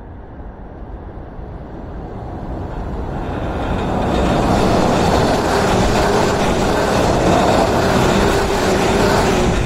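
JR 115-series electric train crossing a steel truss railway bridge, the noise of its wheels and running gear growing louder over the first four seconds as it approaches, then staying loud as the cars pass close overhead.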